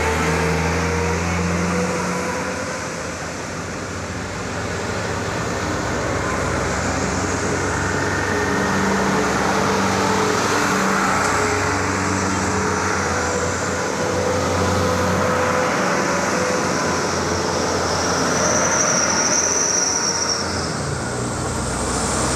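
Heavy trucks driving past on a road: engines running with a continuous low drone and tyre and road noise, briefly a little quieter about three seconds in.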